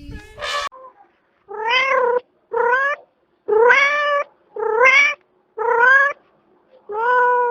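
Domestic cat meowing over and over: about six drawn-out meows, roughly one a second, each rising a little in pitch.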